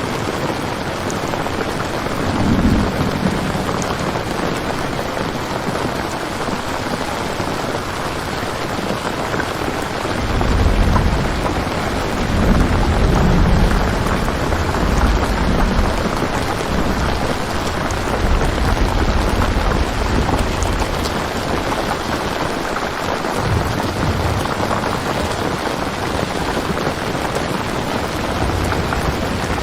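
Steady rain ambience with rolling thunder: a short low rumble about two seconds in, then a longer rolling rumble from about ten seconds in that swells and fades over some ten seconds.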